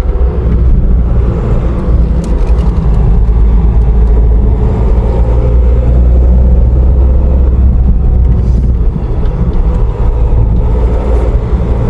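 Car engine and tyre noise heard from inside the cabin as the car climbs a hill road: a steady low rumble.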